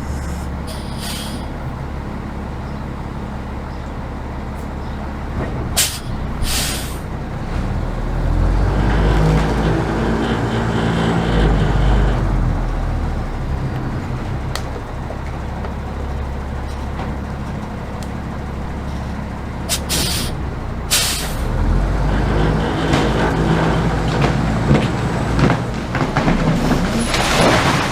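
Military 5-ton 6x6 truck engine running and revving up in two long surges under heavy load as it pulls on a cable to bring down a tree. A few brief sharp sounds cut through, once early and twice near the middle.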